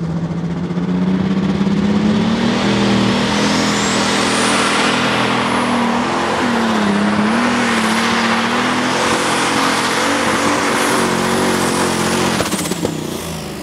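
Limited Super Stock pulling tractor's engine under full load during a pull. Its pitch climbs over the first two seconds, holds high with a brief sag about six to seven seconds in, then drops away about twelve and a half seconds in. A high whine climbs and later falls with it.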